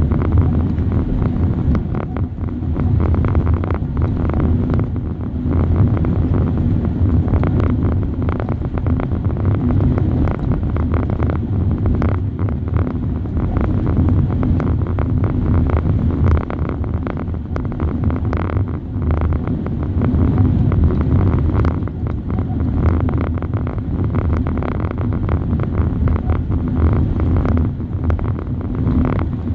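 Passenger train running at speed, heard from inside a coach: a steady low rumble of wheels on the rails with frequent small clicks and rattles, and some wind on the microphone.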